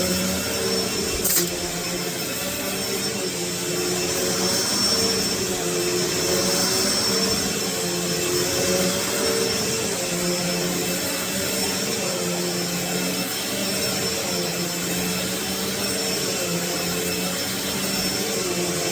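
2010 Eureka Lightspeed 4750A-2 upright vacuum cleaner running steadily during vacuuming, its motor tone wavering slightly over a constant airflow hiss. There is a brief click about a second and a half in.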